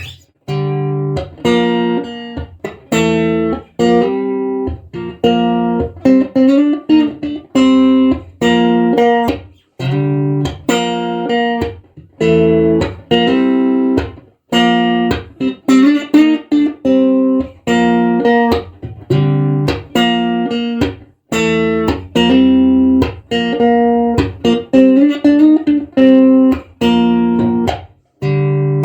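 1976 ash-body Stratocaster-style electric guitar played through an amplifier: chords and short phrases broken by brief stops, with a few string bends.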